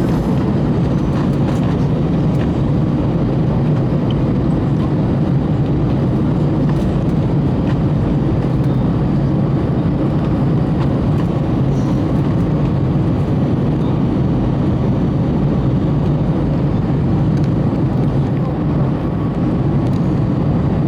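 Airbus A321 cabin noise heard from a passenger seat: a loud, steady low drone of the jet engines and air rushing past the fuselage, with faint steady hums, unchanging throughout.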